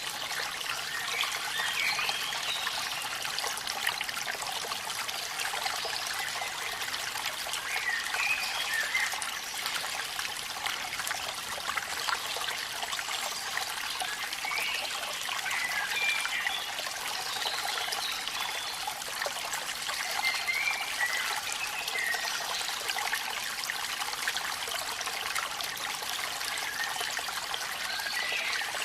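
Waterfall water trickling and splashing in a steady flow. Short higher pitched notes come and go every few seconds over it.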